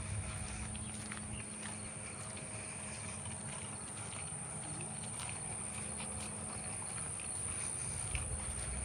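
Outdoor walking ambience: a steady high insect buzz over footsteps on a path, with low wind rumble on the microphone.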